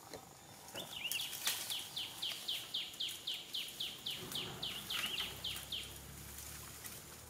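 A bird calling: a quick, even run of identical short chirps, about four a second, starting about a second in and stopping near the six-second mark, with a few light rustles of dry leaves.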